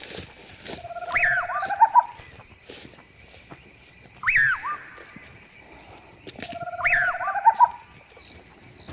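An animal calls three times, about three seconds apart. Each call is a sharp rising-and-falling note, and the first and last are followed by a lower, buzzy rising trill.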